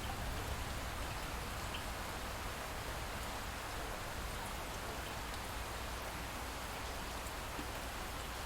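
Light rain falling steadily, an even hiss with faint scattered drop ticks over a low, constant rumble.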